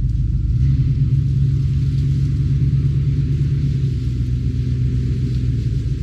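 Pickup truck engine running at low speed, a steady low rumble.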